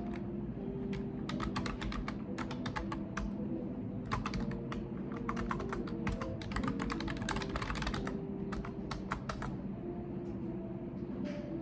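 Typing on a computer keyboard in quick bursts of key clicks with short pauses, from about a second in until near nine seconds, over a steady low background hum.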